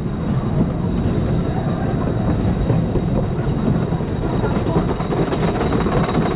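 Wooden roller coaster train running on its track: a steady rumble with rapid rattling clicks and a faint steady whine.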